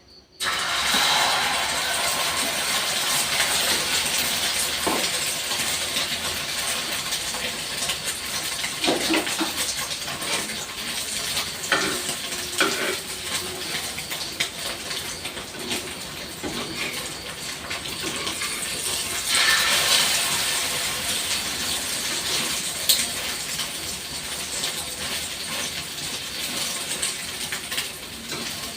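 Eggs sizzling and crackling in hot frying oil as a steady hiss that starts suddenly, with a few clinks of a utensil against the pan.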